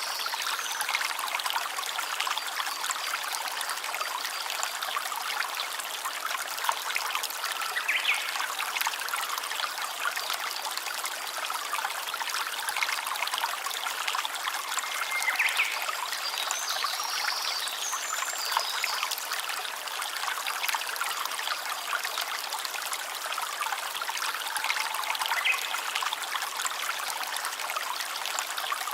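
Stream of water trickling and running steadily, with a few short high chirps now and then.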